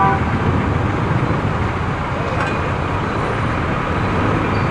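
Steady traffic and road noise heard from a motorcycle riding in congested ("buhol-buhol") traffic, with the rush of the ride and surrounding vehicle engines blending into one even sound.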